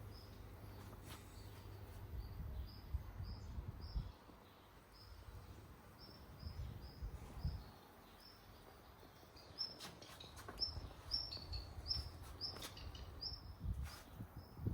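A small bird chirping, the same short high note repeated two or three times a second, over patches of low rumble and a few sharp clicks.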